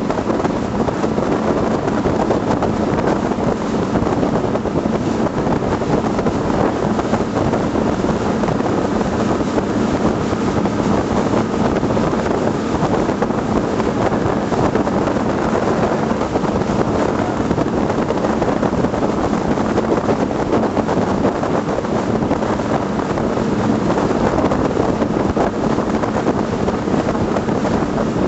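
12 m patrol boat running steadily under way: a constant engine drone under rushing water, with wind buffeting the microphone.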